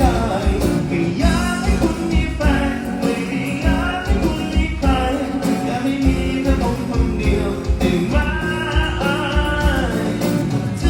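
A Thai folk-style song with a sung vocal and a steady, strong bass beat, played through a sound system with 18-inch subwoofers and 8-inch mid-high speakers.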